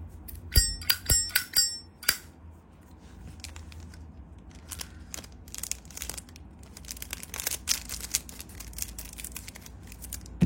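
Brass Zippo lighter lid clicking open and snapping shut several times in quick succession, each strike with a bright metallic ring, the ringing lid sound collectors prize. Softer metal clicks and scrapes follow from handling the lighter.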